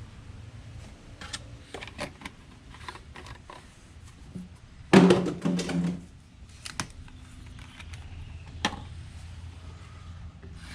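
Scattered clicks and knocks from handling plastic motor-oil bottles while refilling the engine, with one louder hollow, ringing clunk about five seconds in, over a low steady hum.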